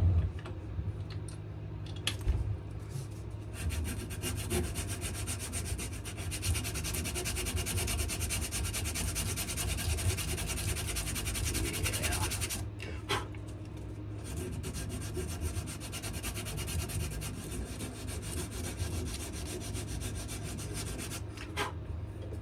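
Sandpaper rubbing back and forth on a wenge-and-maple knife handle in quick, continuous strokes, stopping briefly about halfway through and then carrying on.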